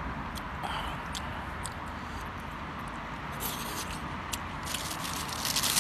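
Steady rain falling, with scattered small clicks and a louder scraping rustle near the end.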